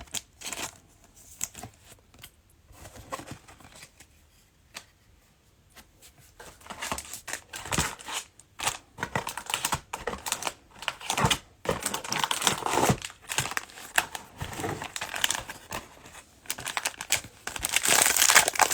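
Trading cards being handled and shuffled through, a run of soft clicks and taps with a quieter stretch early on, then the cellophane wrapper of a card pack crinkling loudly near the end.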